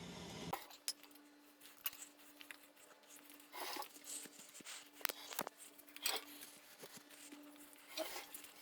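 Faint, scattered metallic clicks and knocks as an engine with its subframe is pulled out of a truck, over a steady low hum.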